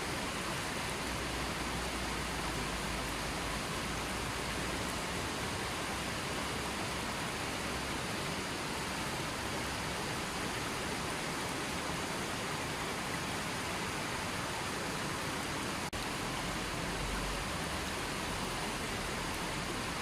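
River water flowing in a steady, even rush, with one brief click about sixteen seconds in.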